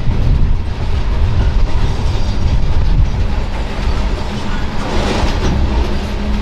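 Freight train rolling by: a steady low rumble of wheels on rail with clickety-clack over the rail joints, under a steady low hum.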